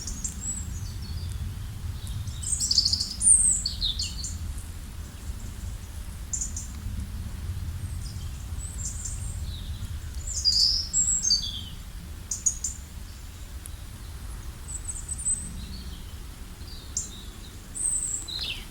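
Songbirds chirping and calling in short, high, quick notes, some sliding downward, scattered irregularly, over a steady low rumble.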